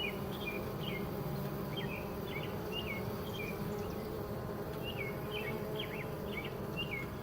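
Honeybees buzzing steadily at a swarm trap, a low even hum from the colony bearding outside the box in the heat. Short faint high chirps come and go above the hum.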